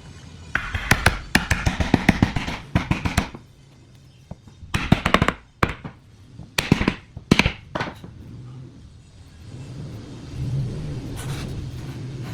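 Hand-tool work on wood: three bursts of rapid knocks and strikes, the first lasting about three seconds, the other two shorter, with a low hum between them.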